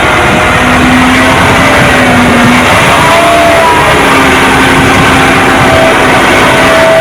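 Diesel engine of heavy earth-moving equipment running loud and steady, its pitch shifting slightly up and down.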